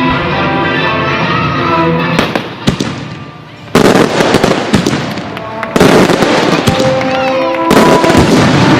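Fireworks going off over music: scattered sharp cracks, then three loud bursts of crackling about two seconds apart in the second half.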